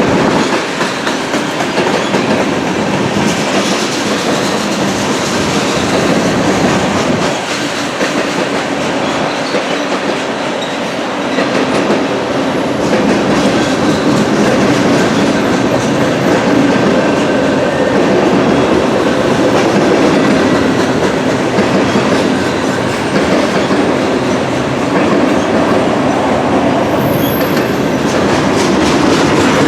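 Norfolk Southern freight train rolling past, its car wheels clattering steadily over the rails.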